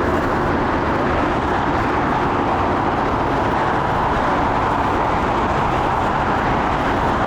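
Jet airliner engine noise: a loud, steady rushing sound that holds level throughout.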